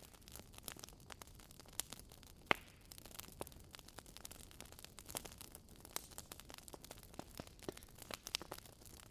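Wood fire burning in a fireplace, crackling and popping in irregular sharp snaps over a soft hiss, with the loudest pop about two and a half seconds in.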